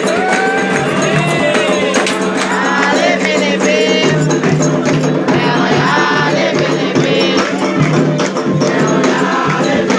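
Candomblé ritual music: hand drums and rattles keeping a steady beat while voices sing a chant for the orixá Oyá.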